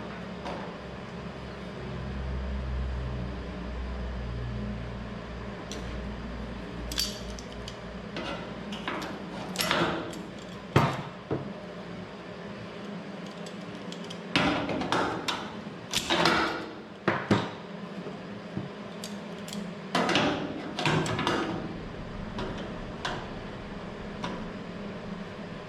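Metal parts and tools knocking and clinking as sheet-metal pieces are handled and fitted. The knocks come irregularly, most of them in the second half, over a low steady hum that fades out about halfway through.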